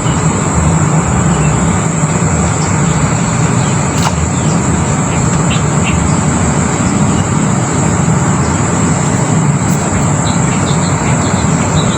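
A loud, steady rushing noise, with a thin, continuous high-pitched insect drone above it and a few faint clicks.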